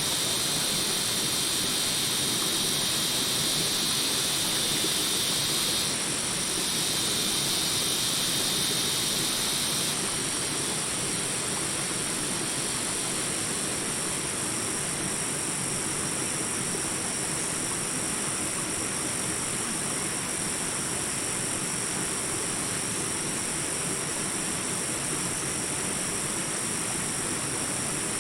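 Small jungle rapids rushing steadily, with a high, steady buzzing of jungle insects over the water. A louder buzz runs in two stretches, with a short break about six seconds in, and stops about ten seconds in.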